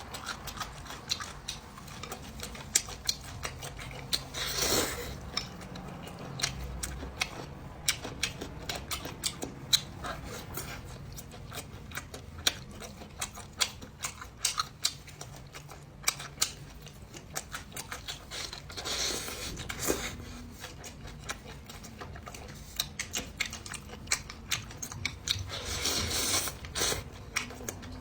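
Close-up eating sounds: mouth-close chewing and biting with many sharp clicks, likely utensils on dishes, throughout. Three longer noisy swells stand out, near five seconds in, around nineteen seconds and near the end.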